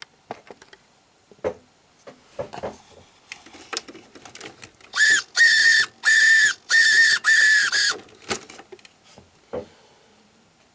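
Five short, high, whistle-like horn blasts from a Tamiya Scania 770S model truck's sound unit. They come a few seconds in, after some scattered clicks and knocks.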